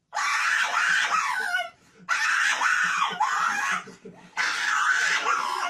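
Three long, harsh screams, each about a second and a half, with short pauses between them.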